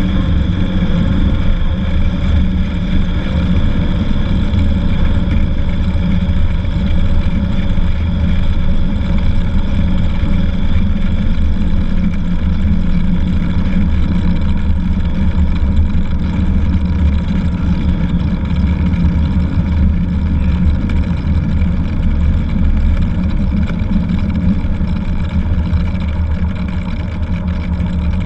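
Cessna 182's piston engine and propeller running steadily at constant power, a loud, even drone with no change in pitch.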